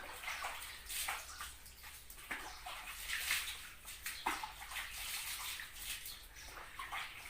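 Water splashing and sloshing in irregular bursts as a dog is washed, with a few louder splashes.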